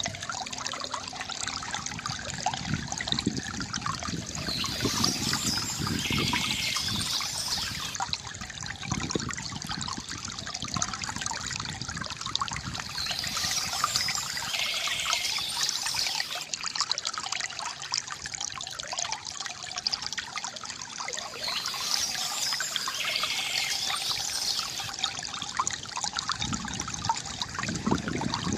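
Water from a bamboo fountain trickling and splashing steadily, with birds chirping in short spells that come back about every eight seconds.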